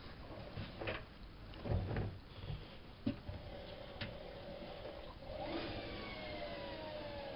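Bauknecht WAP 6460 washing machine: a few clunks from the drum, then the drum motor's whine, which begins slowly falling in pitch about halfway through as the drum slows.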